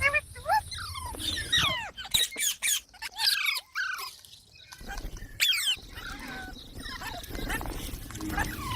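Parrot calling in a run of short, sharp chirps and squawks that slide down in pitch, thickest about two to three seconds in and again near the middle.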